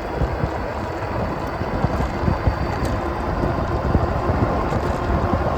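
Wind buffeting the microphone during an e-bike ride, a steady rumbling rush with gusty flutter, over the bike's tyre and road noise.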